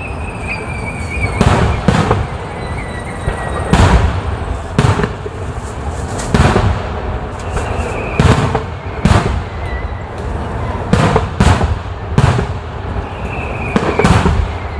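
Aerial fireworks shells bursting at a display: a loud, irregular string of about a dozen booms, some in quick pairs. Between them, high thin whistles glide slowly down in pitch.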